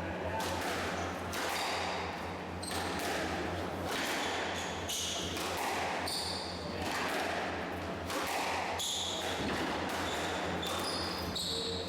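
Squash rally on an indoor court: the ball is struck by rackets and slaps off the walls about every 0.7 s, ringing in the hall, with short high squeaks from players' shoes on the court floor.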